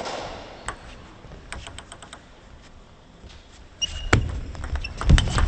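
Table tennis sounds: a few scattered sharp clicks of the celluloid-type ball, then from about four seconds in a busier run of quick ball clicks mixed with low thuds and brief shoe squeaks, as play picks up.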